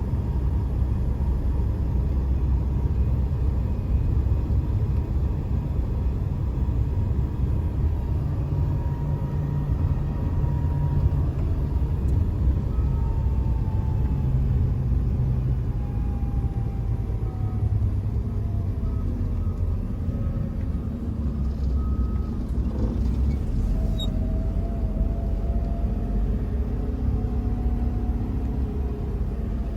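Truck driving on a winter road: a steady low rumble of engine and road noise, with faint whining tones above it that slowly slide up and down in pitch.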